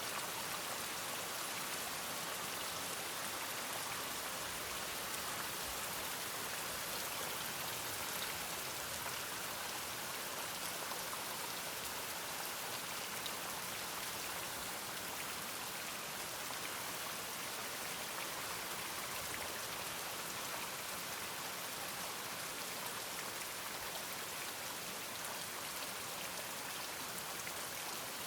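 Steady rain falling, an even hiss with no single drops, thunder or barks standing out.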